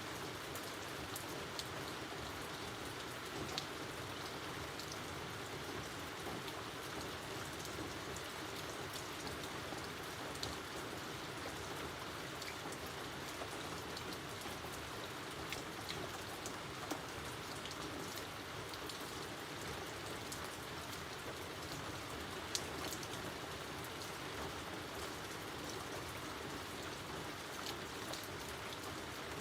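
Steady rain falling, an even hiss with many individual drops ticking sharply on nearby surfaces.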